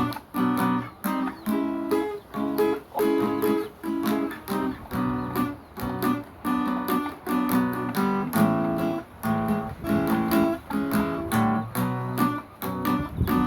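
Acoustic guitar playing chords in a steady rhythm, with a new chord struck about twice a second.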